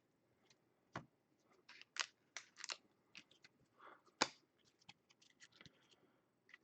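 Faint handling of trading cards and pack wrappers: scattered soft clicks, slides and crinkles, with a sharper click about four seconds in.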